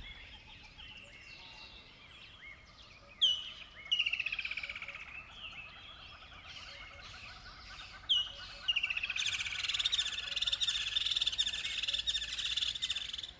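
Small birds chirping and calling, with a few sharp downward-sweeping calls and a dense, rapid twittering chorus from about nine seconds in.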